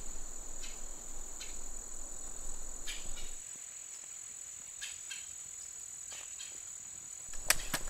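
A steady, unbroken high-pitched trill, insect-like, with a few soft clicks and some rustling that dies down about three seconds in. A sharper cluster of clicks comes near the end.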